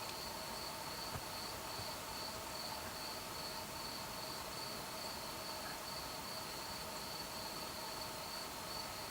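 Crickets singing a steady, unbroken high trill, with fainter steady tones lower down.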